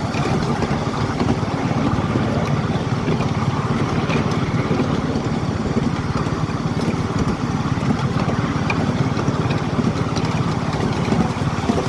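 Miniature railway train running, with a small engine going steadily at a fast, even pulse.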